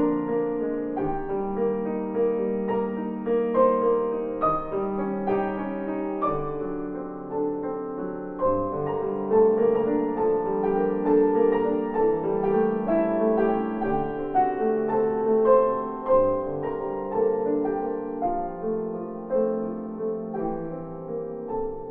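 Background piano music: a gentle piece of held chords and melody notes at a steady pace.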